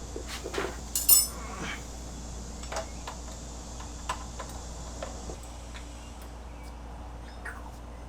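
Small hard parts and hand tools being handled on a workbench: scattered clicks and knocks, with one sharp metallic clink that rings briefly about a second in, over a faint steady low hum.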